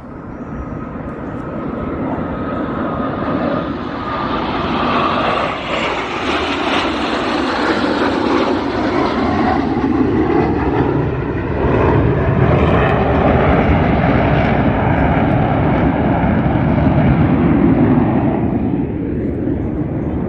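Low-flying airshow aircraft passing over, its engine noise building over the first several seconds and then staying loud.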